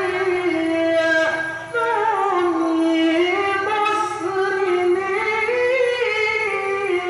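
Quran reciter chanting tilawah in a high register, in maqam Rast: one voice drawn out in long melismatic notes that bend up and down, with a short break for breath about one and a half seconds in.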